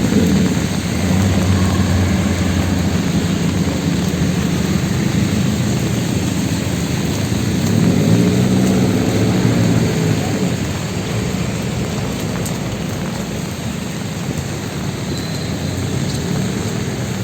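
Heavy rain pouring down on a city street, a steady hiss of water. A vehicle engine passes about eight seconds in, rising and falling.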